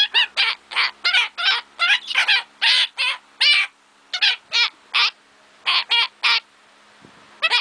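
Pet bird calling over and over: a long run of short, harsh squawks, about two to three a second, with a pause of about a second near the end.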